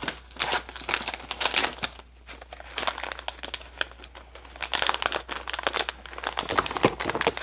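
Snack packaging crinkling as it is handled, in irregular crackles with brief lulls about two and four seconds in.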